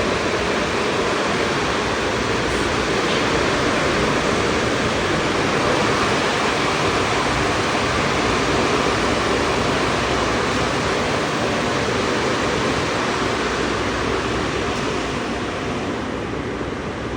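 Automatic car wash equipment running: a loud, steady rushing noise that eases slightly near the end.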